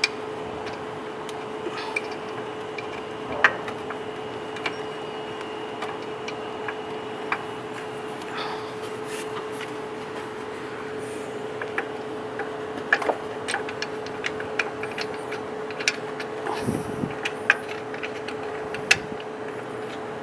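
Hand tools, a ratchet and spanner, clicking and clinking against metal at irregular intervals while the belt tensioner is unbolted from the engine, over a steady low hum.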